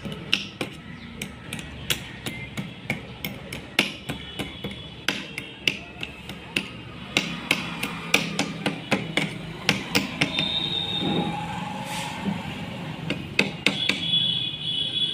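Hammer tapping repeatedly on metal, irregular strikes a few times a second, some with a short metallic ring, as a lock is driven into place on a manual gearbox during reassembly.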